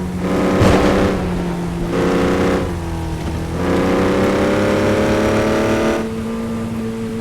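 Vehicle engine idling and revved three times, the last rev held for a couple of seconds and slowly rising in pitch.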